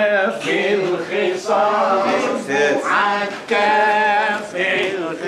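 Male singing of a slow Egyptian Arabic song, with long held notes that bend and waver between short breaths.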